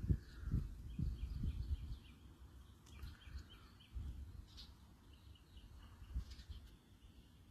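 Outdoor ambience: gusts of wind rumbling on the microphone, loudest in the first two seconds, under faint rapid strings of high bird chirps.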